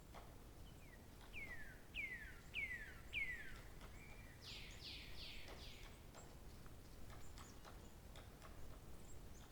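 A songbird singing one phrase: four clear whistles, each falling in pitch, then a quick run of falling notes about four to six seconds in. Faint scattered ticks sound over a low background hiss.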